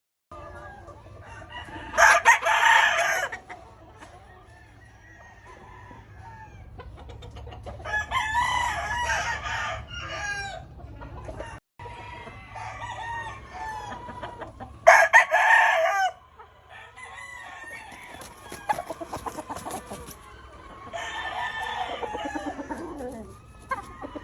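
Gamefowl roosters crowing, four long crows in turn, the loudest near the start and midway, with fainter clucking and calls from other birds in between. A steady low rumble runs underneath.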